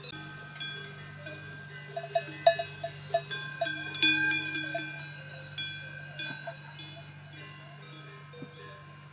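Bells worn by grazing livestock clanking irregularly, with several ringing tones overlapping and a quick run of strikes a couple of seconds in. A steady low hum runs underneath.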